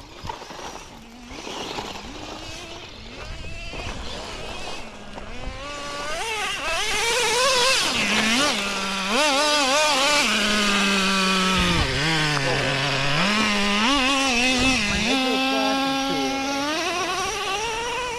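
Small nitro RC car engine running and revving, its pitch rising and falling as the throttle is worked. It grows loud about six seconds in and fades near the end.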